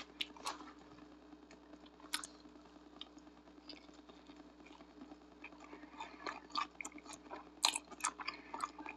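A person biting into and chewing a stuffed pizza burrito: soft, wet mouth clicks and smacks, sparse at first and coming thicker in the last few seconds.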